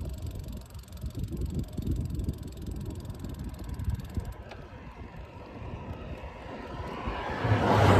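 Wind buffeting the microphone during a ride, a low fluttering rumble. Near the end a motor vehicle grows louder and passes close, its engine hum and road noise peaking right at the end.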